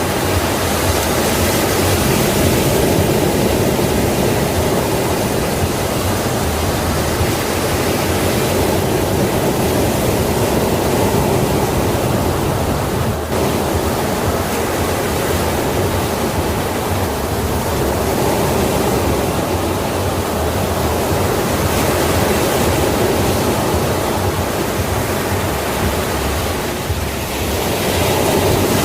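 Sea waves breaking and washing on a shore, a continuous loud rush of surf that swells and eases slowly.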